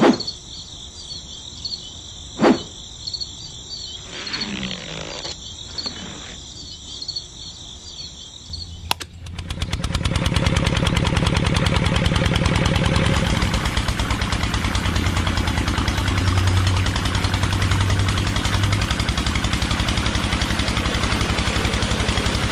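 A steady high pulsing chirr of insects, then about nine seconds in a small engine starts abruptly and runs on steadily with a fast, even beat and a low hum.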